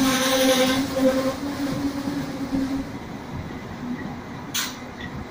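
Enterprise passenger train rolling past the platform, its steady hum and rushing noise fading over the first few seconds as the carriages move by. About four and a half seconds in there is one brief sharp hiss.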